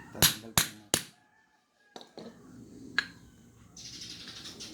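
Sharp knocks of metal fork parts and tools being handled: three quick ones in the first second and another about three seconds in, then a steady hiss near the end.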